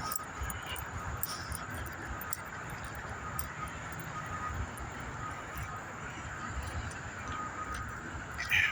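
Steady distant highway traffic hum, with faint scattered ticks and crackles and a short sharper sound near the end.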